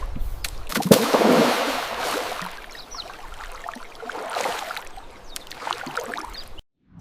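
Water splashing and sloshing in irregular surges, loudest about a second in, then cutting off abruptly near the end.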